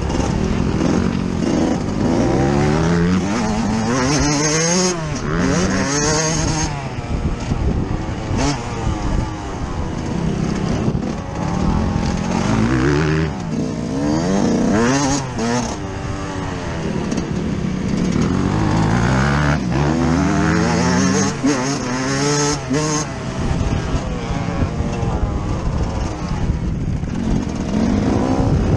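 Yamaha YZ125 two-stroke motocross engine heard on board, revving hard and climbing in pitch again and again as it pulls through the gears, then dropping back as the throttle is shut.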